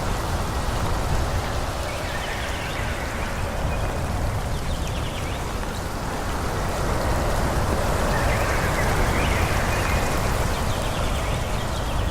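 Wind blowing through forest trees, a steady rushing with a low rumble that swells about halfway through. Faint high chirps come through now and then.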